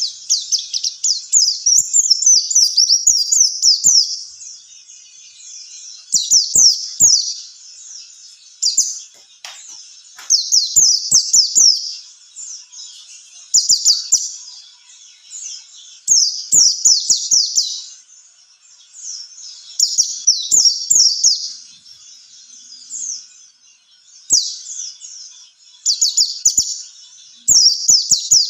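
White-eye (pleci) singing in rapid, high twittering phrases of quick down-slurred notes. Each phrase lasts a second or two and is repeated after short pauses.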